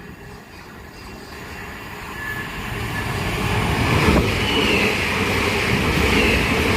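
A train approaching and passing close, growing steadily louder from a faint rumble to a loud run of wheels on rail, with a faint wavering high squeal in the last few seconds.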